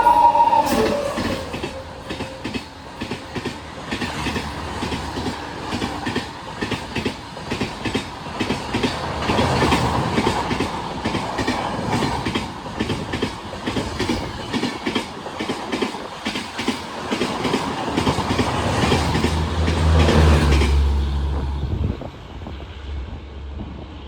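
A train passing through a station at speed, its wheels clattering rhythmically over the rail joints for about twenty seconds. The tail of its horn sounds at the very start, and the clatter stops suddenly near the end as the last coach goes by, leaving a low hum.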